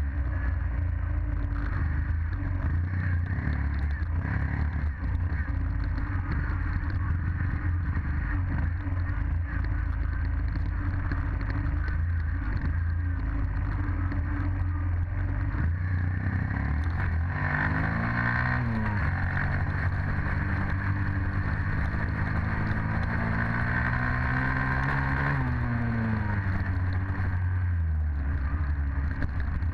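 Dirt bike engine running with a steady rumble. A little past halfway it revs up, holds the higher pitch for several seconds, then drops back down.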